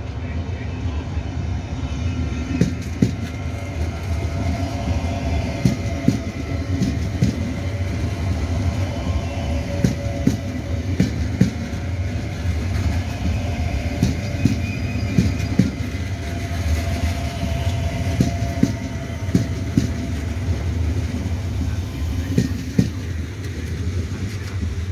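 Trenord double-deck electric train passing close by on the track, a steady rumble of wheels on rail broken by repeated sharp clicks as the wheels run over the rail joints, with a steady hum above it.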